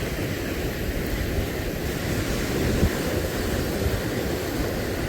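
Wind buffeting the microphone as an uneven low rumble, over the steady wash of sea surf.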